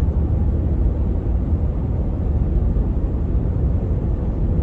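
Steady low rumble of a truck driving, road and engine noise heard inside the cab.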